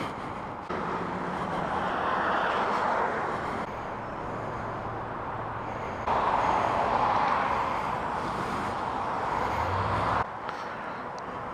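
Highway traffic going by, a steady rush of tyre and engine noise that swells louder twice as vehicles pass.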